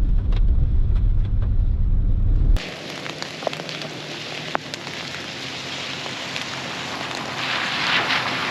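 A truck's low road rumble, heard inside the moving cab; about two and a half seconds in it cuts suddenly to steady rain falling, with scattered drops ticking.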